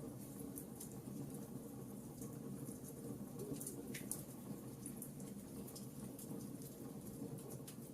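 Wood fire burning, with a low steady rush under many small, irregular crackles and pops.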